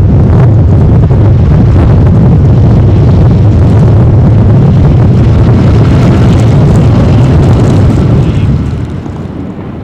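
Strong gusting wind buffeting the microphone: a heavy, loud rumble that eases off near the end.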